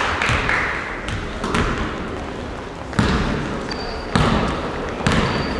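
Basketballs bouncing on a hard gym floor, about five thuds at irregular intervals of a second or so, echoing in a large hall. Two short, high squeaks come near the end.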